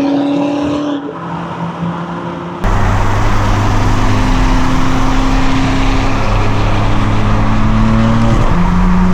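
Straight-piped BMW exhaust running at steady revs. About two and a half seconds in, the sound abruptly becomes much louder and deeper, and the engine note climbs briefly near the end.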